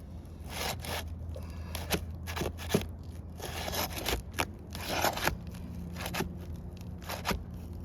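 A brittle shingle tearing and crackling as it is pried up around its nails, in a string of short scraping bursts, with a longer one near the middle.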